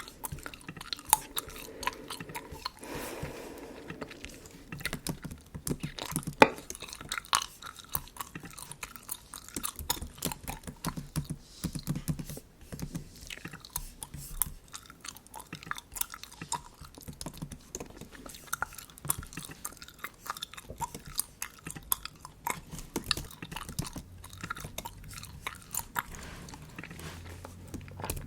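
Bubble gum chewed close to the microphone: an irregular run of small clicks and smacks.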